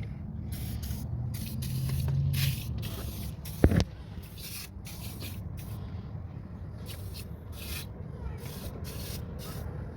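Aerosol can of WD-40 penetrating oil sprayed in many short spurts onto the brake fasteners to loosen them. A single sharp knock about four seconds in is the loudest sound.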